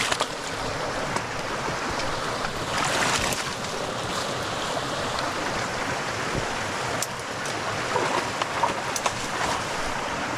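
Stream water running steadily, with a few faint sharp clicks.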